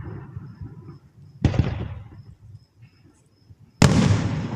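Two aerial fireworks bursting, one about a second and a half in and a louder one near the end, each sharp bang trailing off in a low rumbling echo.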